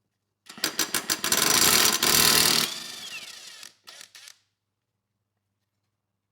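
Power tool, most likely an impact wrench, on the mower's blade bolt. It starts with quick hammering knocks that run into about two seconds of steady hammering, then the motor winds down with a falling whine, followed by a few short blips.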